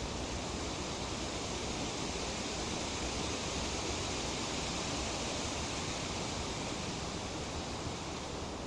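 Breeze through tree leaves: a steady, even rustling hiss that swells a little through the middle.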